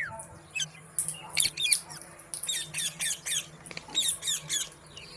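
Green parrot squawking: three quick runs of short, sharp, high-pitched calls.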